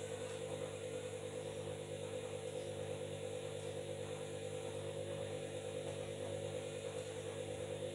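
Washing machine running at a steady speed: a constant motor hum with a steady whine, pulsing slightly as the drum turns.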